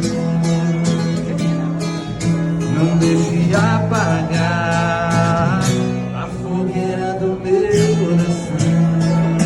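Acoustic guitar strumming the instrumental passage of a sertanejo love song in a steady rhythm, with a wavering higher melodic line for a couple of seconds midway.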